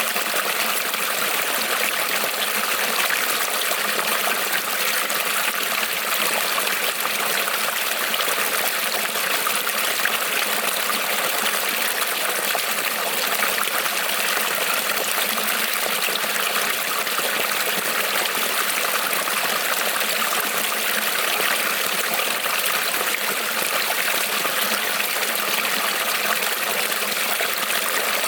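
Small creek rippling and trickling over stones in a steady, unbroken stream of water noise.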